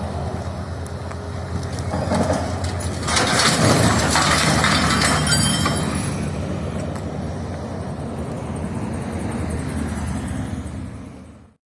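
Road and engine noise of a moving vehicle as heard by a dashcam. A louder rushing, crackling noise comes in about three seconds in and eases off after about six seconds. The sound cuts off abruptly near the end.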